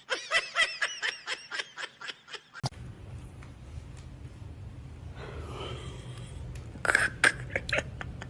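A quick run of short laughing bursts, about five a second, then an abrupt change to a steady low rumble with a few faint short sounds near the end.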